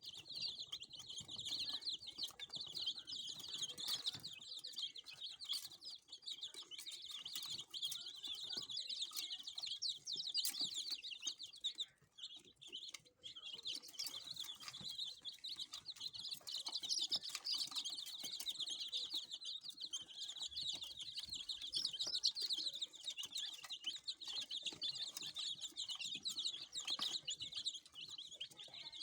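Many Aseel chicks peeping all at once, a dense chorus of high cheeps with a brief lull about twelve seconds in.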